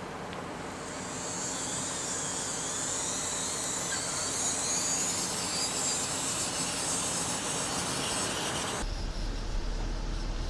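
Small electric motors of RC model construction machinery running steadily with a hiss that swells after about a second. Near the end the sound cuts off abruptly to a low hum.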